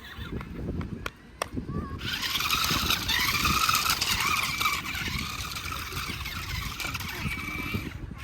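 Electric motor of an RC stunt truck whining under load, starting about two seconds in, its pitch rising and falling with the throttle over a broad hiss.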